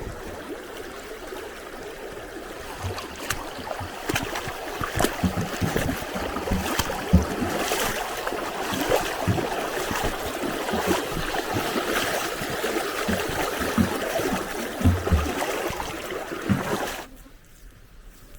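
Running water splashing and trickling, with many small sharp splashes or knocks scattered through it; the sound cuts off abruptly near the end.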